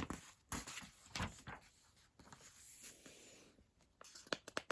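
Pages of a paperback coloring book being turned and handled: a few short, crisp paper swishes and rustles, with a cluster of them near the end.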